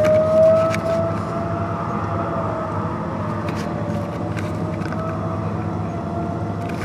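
Outdoor civil defense tornado siren sounding a long, steady wail that has just wound up to pitch, wavering slightly in pitch, over a steady low engine hum.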